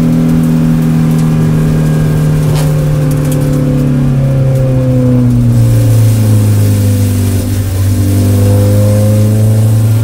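Spec Miata's four-cylinder engine heard from inside the cabin, off the throttle as the car slows. Its note falls steadily for about six seconds, then holds at a lower pitch.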